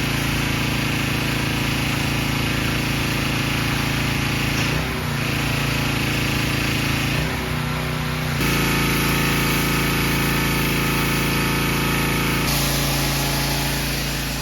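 Pressure washer running steadily, its motor a constant pitched drone, with a few abrupt shifts in pitch and level.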